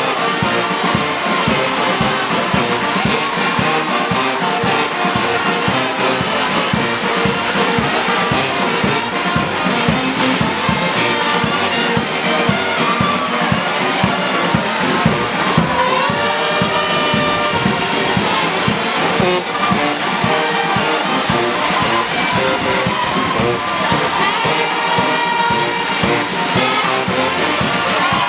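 Brass band music playing continuously, with trumpets and trombones.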